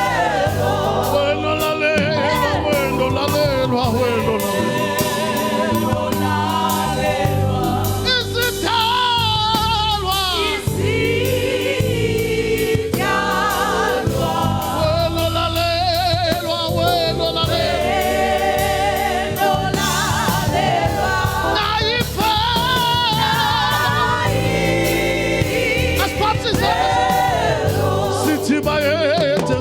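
Gospel choir singing a Zulu worship song, voices wavering with vibrato over a steady instrumental backing.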